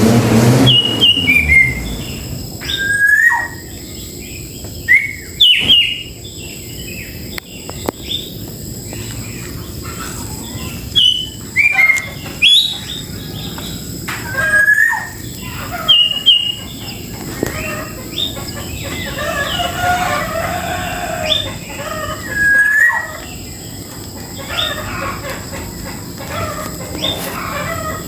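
A grey-cheeked bulbul (cucak jenggot) calling: a string of short, sharp whistled chirps, some sliding down and some up, repeated at irregular intervals.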